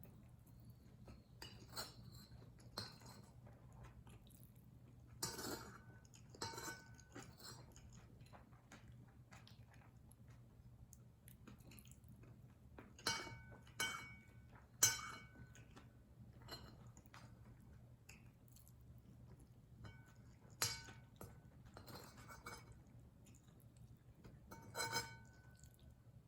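Spoon clinking and scraping against a dish while eating kimchi fried rice: scattered sharp clinks with a short ring, the loudest three in quick succession about halfway through and another near the end, with soft chewing in between.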